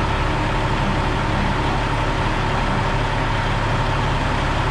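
Heavy diesel engine running steadily at a constant speed, with a steady hum and a faint higher whine over it.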